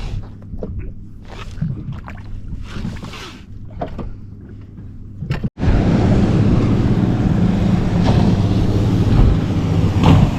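Boat on the water: a low steady motor hum under scattered knocks and small noises. About halfway through, an abrupt cut brings a louder steady rush of motor and wind.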